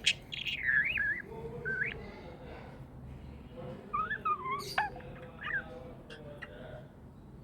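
Pet budgies chirping and warbling in short, twisting phrases, loudest in the first second and again about four seconds in.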